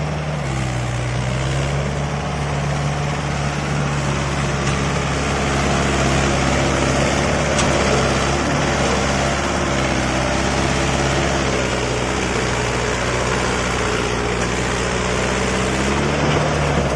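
Mahindra tractor's diesel engine running steadily, its pitch swaying slightly up and down.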